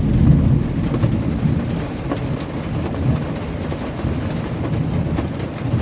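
Thunder rumbling over steady rain on the van, heard from inside; the rumble is strongest at the start and eases off a little after.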